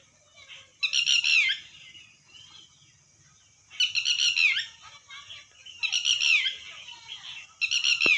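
Red-wattled lapwing calling: four loud, harsh calls about two seconds apart, each a quick run of sharp notes dropping in pitch. Fainter chirps in between, over a steady high hiss.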